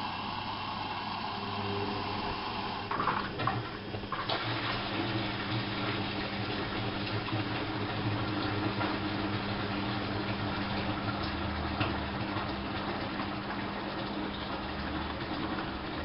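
Bauknecht WAP 6460 washing machine running mid-cycle: water rushing in the machine over a steady low hum of a motor or pump, with the sound changing about three to four seconds in.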